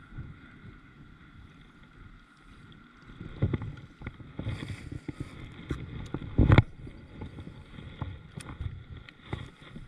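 Knocks and bumps on a fishing kayak's hull over low wind rumble on the microphone, the loudest knock about six and a half seconds in.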